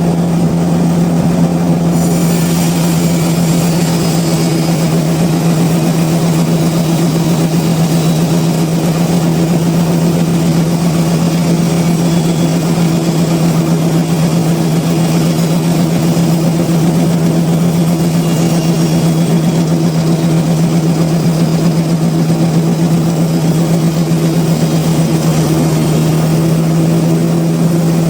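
Sawmill machinery running steadily with a loud, constant-pitched drone. A higher hiss joins about two seconds in.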